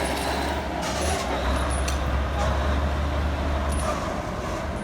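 Heavy construction machinery's diesel engine running steadily with a low drone that drops away about four seconds in, over general site noise with a few light clicks.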